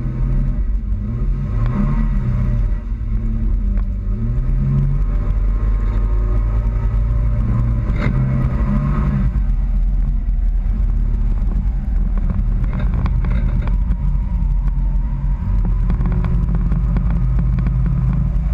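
Toyota Tacoma pickup's engine running while driving, over a constant low rumble. Its pitch rises and falls a few times in the first few seconds, then holds fairly steady.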